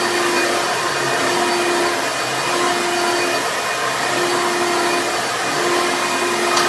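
Hoover Elite vacuum cleaner running steadily at full speed, its motor giving a constant whine over the rush of air, during a floor sweep.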